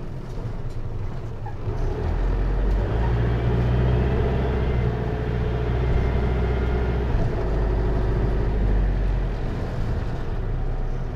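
Hino Liesse minibus's J05C diesel engine and automatic transmission heard from inside the cabin. The engine note grows louder about two seconds in, holds under load, then eases off near the end.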